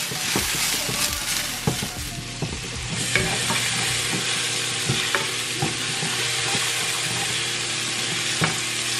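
Chopped onion and green pepper sizzling in oil in a stainless steel frying pan, stirred with a wooden spoon, with scattered light clicks of the spoon against the pan.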